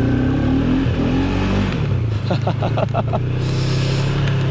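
ATV engine running, revving in the first second or so, then its pitch falls and settles to a steady idle. A quick run of short higher-pitched pulses sounds about halfway through.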